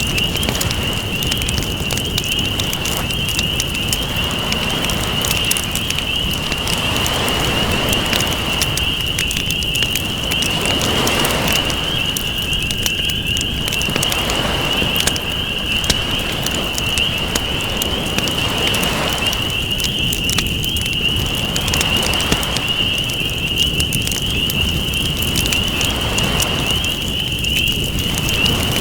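Campfire crackling over ocean waves washing in, the wash swelling and fading every few seconds, with a steady high-pitched tone underneath.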